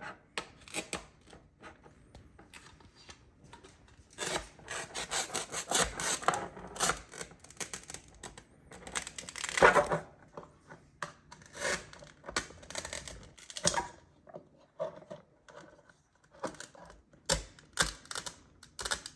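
A kitchen knife sawing back and forth through a tough tomato, in several bouts of scraping strokes with short pauses between.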